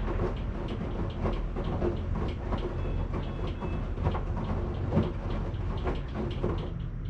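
Washing machine running: a steady low hum from the drum with irregular knocks and clatter from the load tumbling. Shortly before the end the clatter stops and a duller hum carries on.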